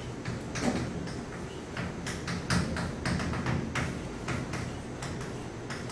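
Chalk tapping and scraping on a blackboard as an equation is written: a run of short, irregular clicks over a steady low room hum.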